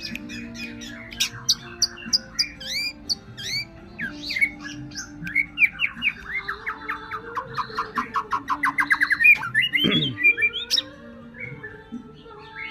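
White-rumped shama (murai batu) singing a rich, varied song of quick whistles, sweeps and chirps. It builds into a fast run of repeated notes in the middle, the loudest part, and ends with a sharp falling sweep. This kind of song is used as a trigger recording to spur caged shamas to sing.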